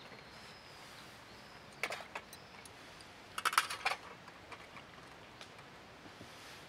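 A few light clicks and clatters of small hard objects being handled, in two short clusters: about two seconds in and again about three and a half seconds in.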